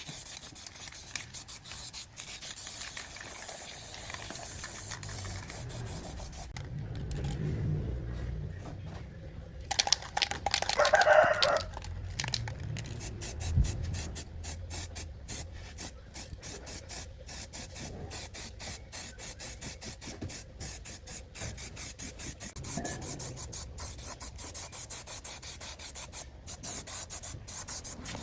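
Rubbing and scraping by hand on a part being restored, in fast repeated strokes, with a louder squealing scrape about ten seconds in.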